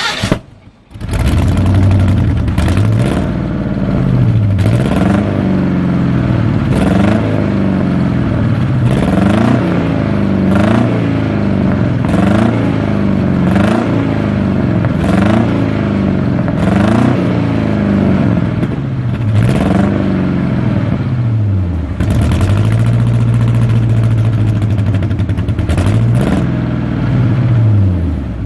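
Carbureted Chevy truck V8 with new exhaust pipes, catching about a second in and then blipped again and again, a dozen or so quick revs about a second and a half apart. It then idles steadily for a few seconds, takes one last rev and shuts off near the end. The owner says the carburetor isn't running right and suspects a vacuum leak.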